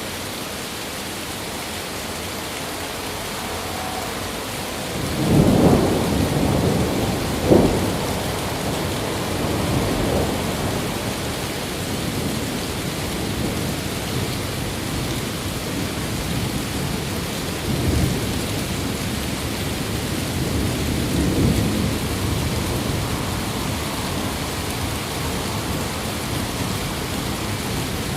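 Steady rain hissing, with a thunder roll building about five seconds in. A sharper clap comes a couple of seconds later, then the thunder rumbles on, with fainter rolls later.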